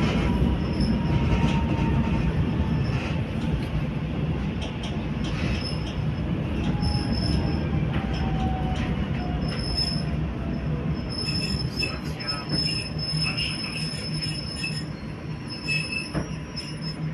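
Passenger train running on rails: a steady rumble of wheels, with a thin, high wheel squeal breaking in now and then from about five seconds in and more often in the second half. The rumble slowly eases toward the end.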